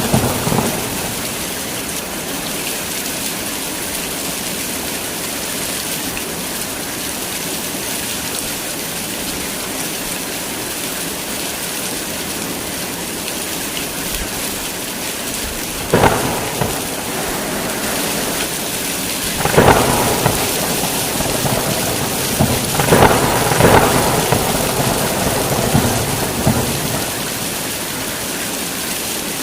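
Heavy rain pouring steadily, with thunder cracking and rumbling about halfway through and twice more over the next several seconds.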